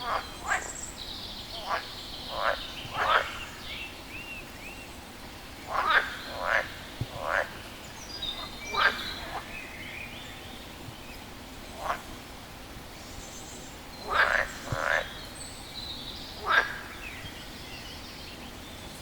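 A frog calling: about a dozen short croaks, singly or in quick runs of two or three, a second or a few seconds apart.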